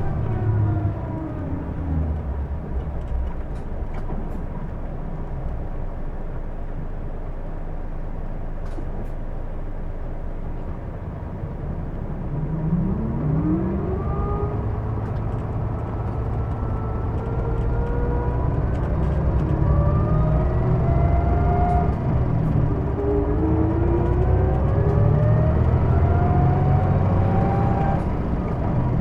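Interior running sound of a Hino Blue Ribbon II diesel city bus, a bus with a known abnormal running noise. A whining tone falls as the bus slows at the start, then there are several seconds of steady low running. From about twelve seconds in, whines rise as it pulls away and speeds up, dropping once and climbing again near the end.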